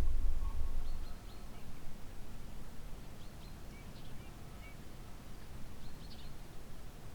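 Faint short bird chirps, a few scattered calls high in pitch, over quiet outdoor background noise. A low rumble at the start stops about a second in.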